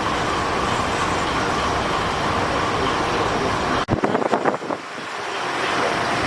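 Steady running noise of a vehicle, with a faint hum over it. About four seconds in it drops out suddenly, a few sharp clicks follow, and the noise builds back up.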